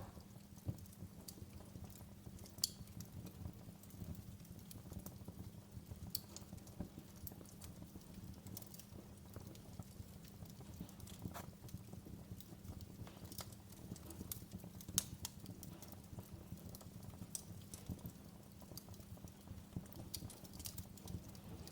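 Wood fire crackling in a fireplace: a steady low rumble of burning with frequent small sharp pops, and a couple of louder pops about 3 seconds and 15 seconds in.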